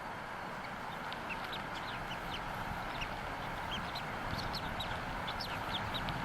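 Newly hatched bald eaglet peeping: a string of short, high chirps, a few each second and more frequent toward the end, over a steady rushing background noise.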